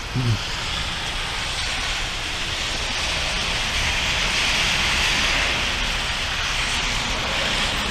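Heavy thunderstorm rain as a steady hiss, swelling slightly in the middle.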